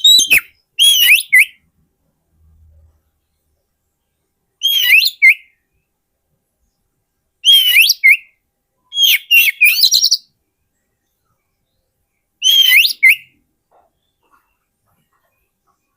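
Oriental magpie-robin singing: six short, loud whistled phrases, each about half a second to a second long, with sweeping and warbling notes, separated by silent gaps of one to three seconds.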